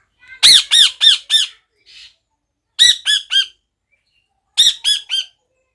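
A parrot squawking in three quick bouts of short, harsh calls: four calls, then three, then three. Each call rises and falls in pitch.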